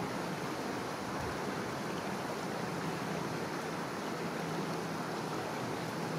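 River water running, a steady even rush. A faint low hum joins about four seconds in.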